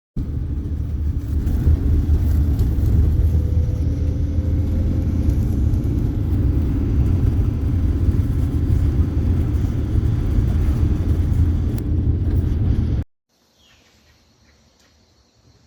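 Loud, steady low rumble of a running motor, which starts abruptly and cuts off about thirteen seconds in. After it, faint bird chirps are heard.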